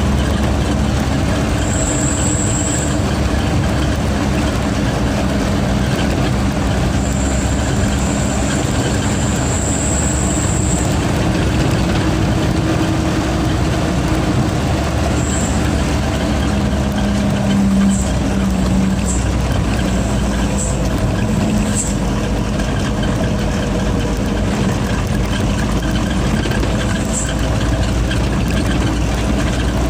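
Heavy truck's diesel engine running steadily under way, with a high turbo whistle coming and going several times.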